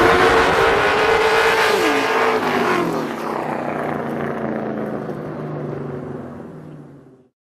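Vehicle engine running hard, its pitch dropping about two seconds in. The sound then fades and cuts off about seven seconds in.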